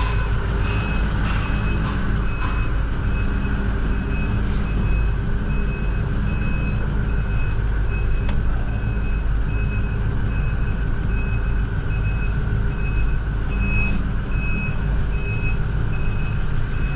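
A truck's backup alarm beeping at an even pace, a little more than once a second, over the steady low running of the truck's engine.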